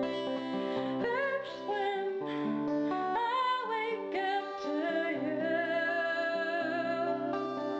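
Background song: a woman singing a slow melody over acoustic guitar.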